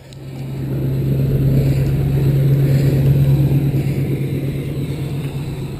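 A snowplow truck's engine running with a steady low drone as it passes. It grows louder over the first couple of seconds and fades slowly toward the end.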